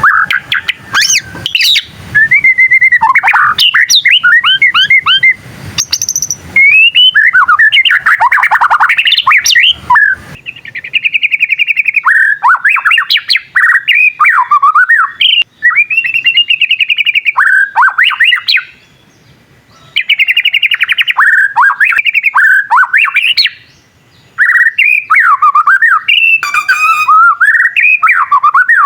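White-rumped shama (murai batu) singing loud, varied phrases of clear whistles, rapid trills and chattering, with two short pauses in the second half.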